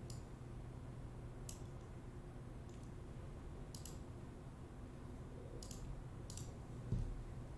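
Computer mouse clicking: about seven sharp single clicks, spaced irregularly one to two seconds apart, over a low steady room hum. Near the end there is a single dull thump.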